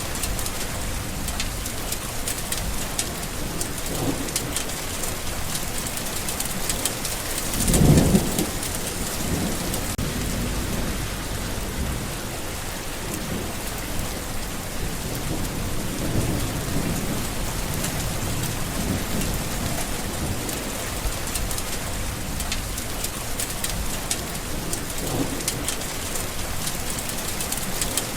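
Steady heavy rain falling, with rolls of thunder; the loudest clap rumbles about eight seconds in, with fainter rumbles around it.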